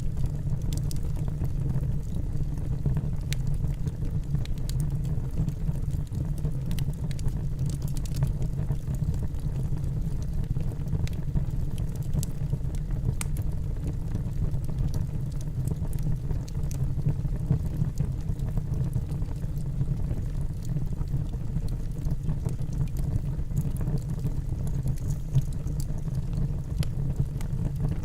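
Wood fire burning in a fireplace: a steady low rumble of the flames with scattered small crackles from the burning logs.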